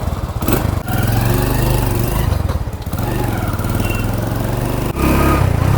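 Hero Honda Splendor motorcycle's small single-cylinder four-stroke engine running with a fast, even beat. Its level steps up about a second in, eases off around the middle and picks up again near the end.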